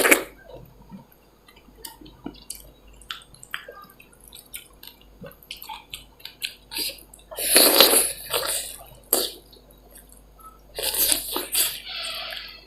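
Close-miked eating of dal bhat with chicken: chewing with many small wet clicks and smacks, broken by two louder, longer noisy mouth sounds, one past the middle and one near the end.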